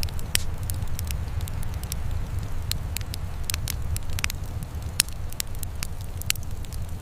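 Wood fire crackling: irregular sharp pops and snaps over a steady low rumble, with one sharper pop about five seconds in.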